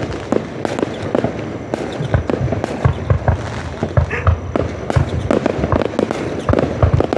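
Fireworks display going off: a rapid, irregular string of booms and bangs, several a second, over a continuous background of crowd noise.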